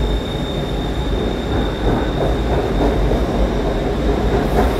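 BTS Skytrain electric train pulling out of an elevated station, a steady rumble of wheels on rail and running gear with a thin, high steady whine over it.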